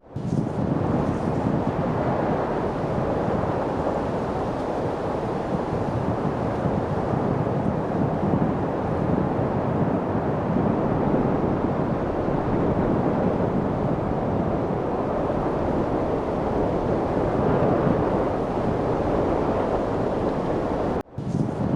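Steady light wind noise, an even rushing hiss. It dips out for a moment at the very start and again near the end.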